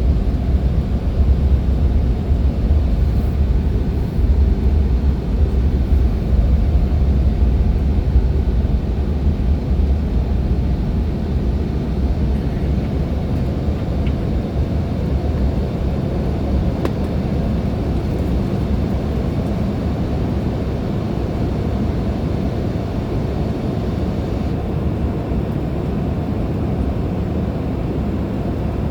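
Jet rumble of a Bombardier CRJ-900's two GE CF34 turbofans at takeoff power: a steady, deep roar that slowly eases off.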